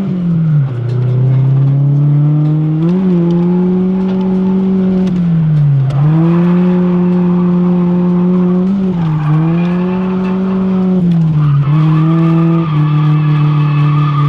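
Drift car engine held at high revs, dropping briefly in pitch and climbing back several times, with a steady tyre squeal near the end.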